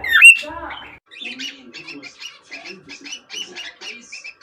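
Cockatiel calling and chattering: a loud gliding whistle right at the start, then about a second in a quick run of short, quieter chirping notes, several each second.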